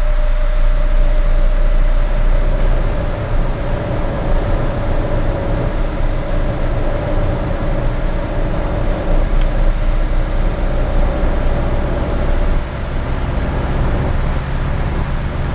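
Citroen C4 Grand Picasso 1.6 HDi diesel running under light load with a very deep drone that pulses once per crankshaft revolution at about 1700 rpm. The owner believes this drone is a fault, though Citroen calls it normal. The sound gets a little quieter about twelve and a half seconds in.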